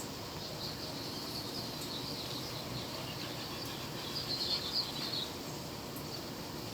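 Steady wind noise with small birds chirping and twittering over it, the chirps loudest about four to five seconds in.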